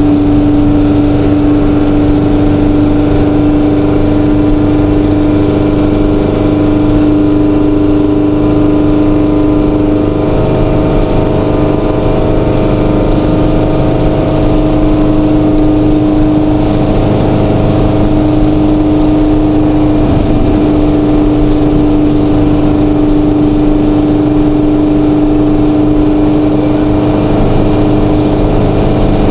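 1955 Volkswagen Beetle's air-cooled flat-four engine running at a steady highway cruise, heard from inside the cabin as a loud, even drone.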